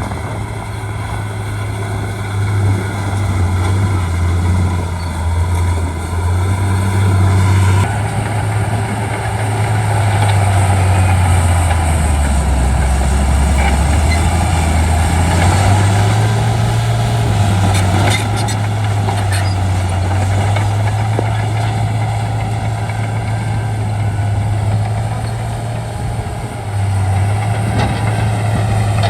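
Shantui D95 bulldozer's diesel engine running with a heavy low drone. The sound grows louder and noisier about eight seconds in. The engine note sags about twelve seconds in and climbs back a few seconds later, with a few sharp clanks partway through.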